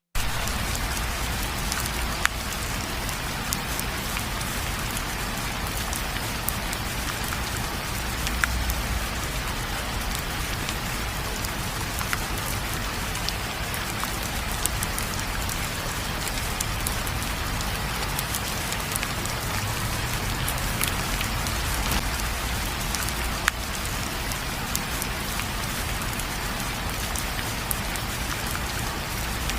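Steady heavy rain falling on a surface, an even hiss with a low rumble beneath, and scattered sharp ticks of single drops every second or two.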